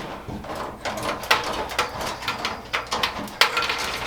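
Irregular light clicks and knocks of parts and tools being handled during the hook-up of a new washer and dryer.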